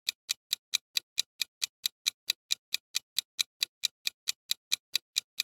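Clock-tick countdown sound effect: fast, even ticks, about four and a half a second, timing the viewer's answer to the quiz question.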